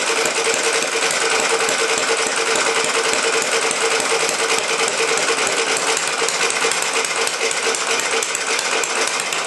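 Antique one-horsepower air-cooled Clinton small engine running steadily after a hard start, with a rapid, even firing beat.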